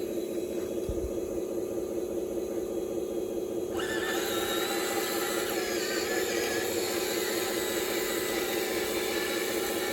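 Cat excavator running with a steady mid-pitched hum. About four seconds in, a hissy, wavering higher whine joins as the machine starts working.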